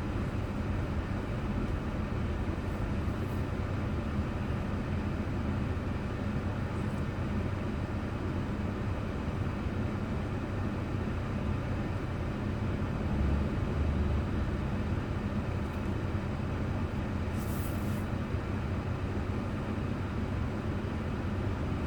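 Steady road and engine noise of a car driving, heard from inside the cabin through a dashboard recorder, with a low even hum. A short hiss passes about three quarters of the way through.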